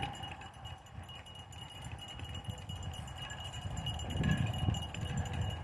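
A kick scooter rolling along a trail, pulled by two harnessed dogs running ahead: a steady low rumble from the wheels with the dogs' footfalls, getting louder about four seconds in.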